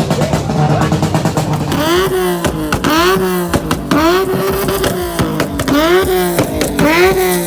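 Car engine being revved over and over, its pitch climbing and dropping with each blip about once a second, after a steady low running note in the first second or two.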